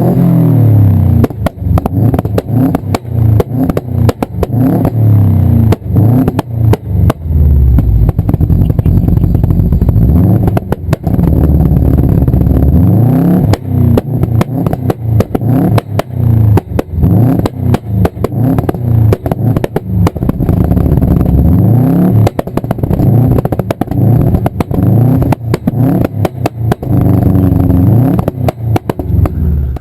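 Car engine revved over and over, the pitch climbing and dropping every second or two. Sharp pops and bangs crack from the exhaust all through it, the backfire typical of a tuned turbocharged car on anti-lag or a rich overrun.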